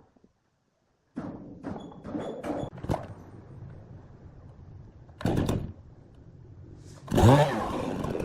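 Several wooden knocks and thuds, then a louder bang about five seconds in. Near the end a machine motor starts with a sudden surge and settles into a steady drone.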